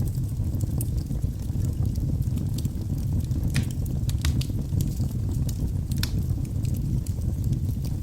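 Wood fire burning in a fireplace: a steady low rumble of flames with scattered sharp crackles and pops from the burning logs, a few louder snaps standing out about three and a half, four and six seconds in.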